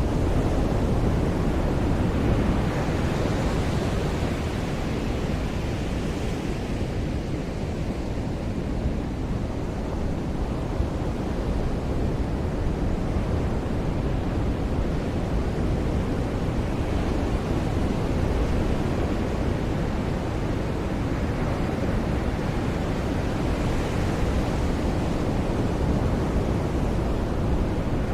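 Ocean surf breaking on a beach: a steady low rush of water with waves washing in and swelling every several seconds.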